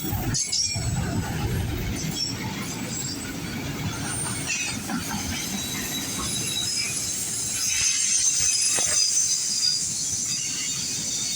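Freight train cars rolling past with a high-pitched squeal of wheel flanges against the rail, over a low rumble that is strongest in the first few seconds.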